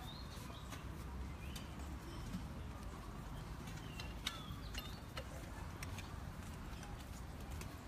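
Birds chirping in short, scattered calls over a low steady outdoor rumble, with sharp clicks here and there, the loudest about four seconds in.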